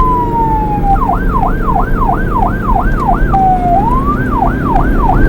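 Police siren, a slow falling wail that switches to a fast yelp sweeping up and down about three times a second, with a short slow glide midway before the yelp resumes. A car engine runs underneath with a steady low rumble.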